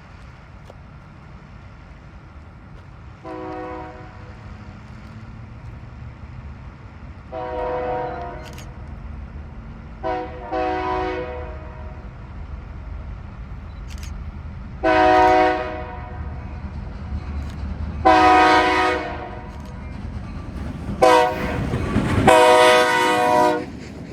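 Diesel locomotive horn sounding for grade crossings: eight blasts of varying length, ending in the long-long-short-long crossing pattern, the last blasts the loudest. A low locomotive rumble builds underneath as the train nears.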